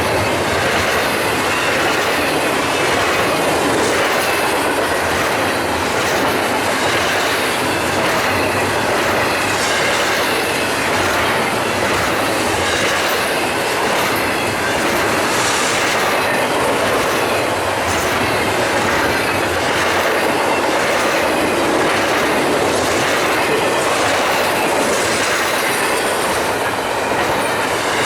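BNSF double-stack container train's cars rolling past on the rails, a steady, loud, unbroken running noise of wheels on track.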